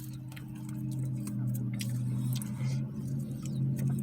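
A low steady engine hum that grows slightly louder, with scattered small clicks and rustles of eating and handling food packaging.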